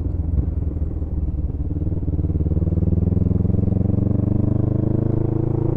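Motorcycle engine running, quieter for the first two seconds, then louder with its pitch rising slowly as the bike accelerates, as out of a corner.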